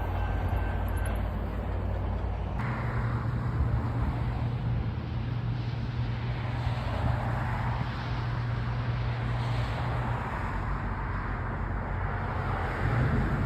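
A vehicle engine's steady low drone over a rushing noise. The sound changes abruptly a few seconds in, then carries on steadily.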